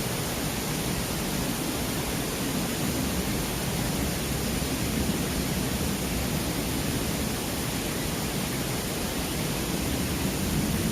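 Mountain valley stream rushing, a steady even rush of water.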